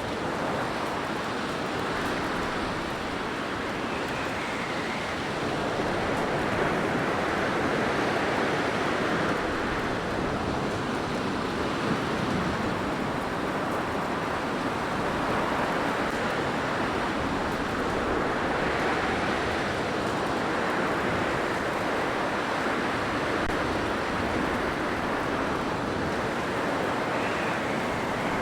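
Blizzard wind rushing steadily in slow gusts that swell and ease every few seconds, with a faint whistle about four seconds in and again near the end.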